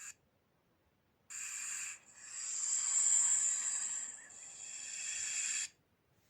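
A snake hissing: a short hiss, then a longer breathy hiss that swells and fades away over nearly four seconds.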